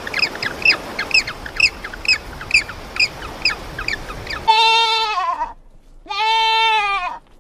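A bird calling in short, high, repeated notes about twice a second over background hiss, then, after a cut, two long bleating calls of about a second each from a farm animal.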